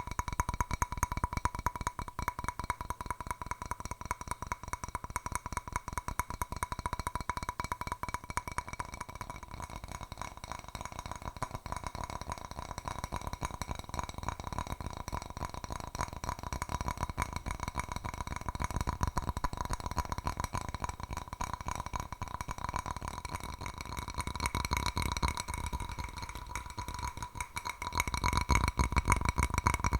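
Fingernails tapping rapidly on a hard object, a dense, unbroken run of clicks over a steady ringing tone. About two seconds before the end the tapping turns louder and heavier.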